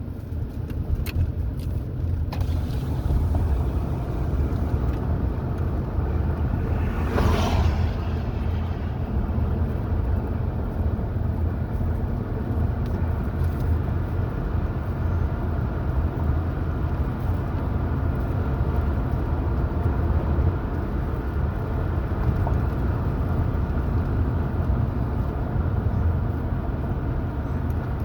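Car driving along a highway: steady low road and engine rumble, with a brief louder rush about seven seconds in.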